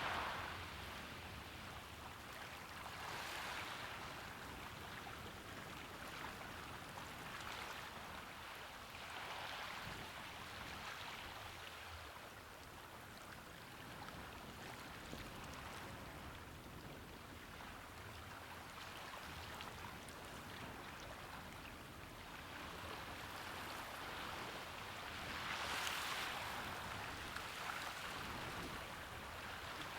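Small waves washing onto a shore, a soft hiss that swells and fades every few seconds, with one stronger wash near the end.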